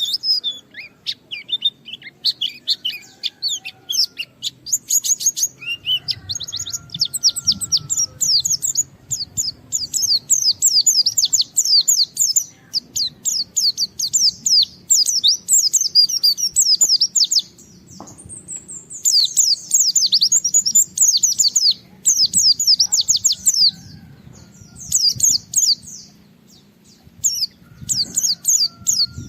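White-eye (pleci) singing in rapid, high-pitched chattering runs of fast notes, breaking off briefly twice: a bird in full song, the kind of song used to challenge a rival.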